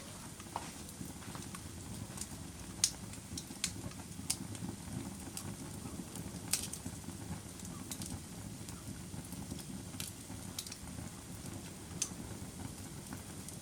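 Wood fire burning in a fireplace: a steady low rush with scattered sharp crackles and pops, about one or two a second, the loudest a little under three seconds in.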